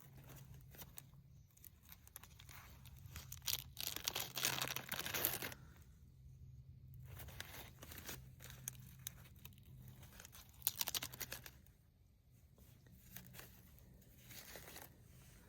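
Tearing and crumpling of dry tinder by hand, coming in irregular rasping spells, longest and loudest about four to five seconds in and again briefly about eleven seconds in, over a faint steady low hum.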